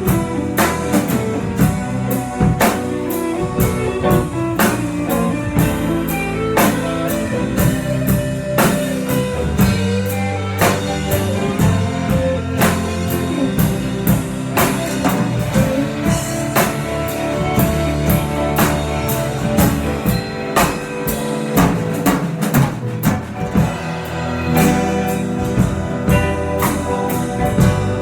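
Band playing an instrumental passage with no singing: guitar over a drum kit keeping a steady beat.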